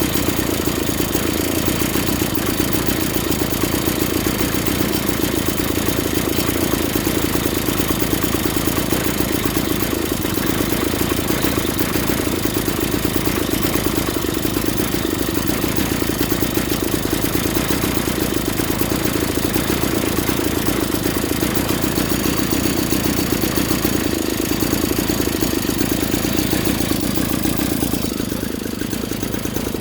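A 49cc two-stroke pocket bike engine idling steadily, dropping slightly in level about two seconds before the end.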